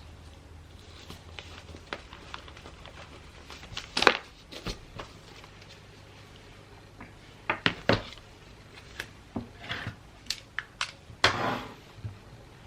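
Gift wrapping by hand: wrapping paper rustling and crinkling, with scattered small taps and clicks. The loudest bursts come about 4 seconds in, around 8 seconds and near 11 seconds.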